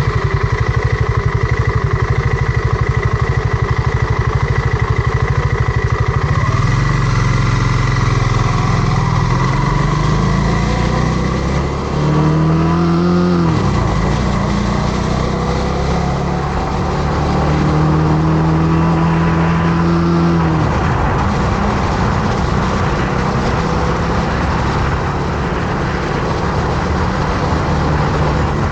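Motorcycle engine running on the move, rising in pitch as it accelerates twice, about twelve seconds in and again near the twenty-second mark, each time dropping back down.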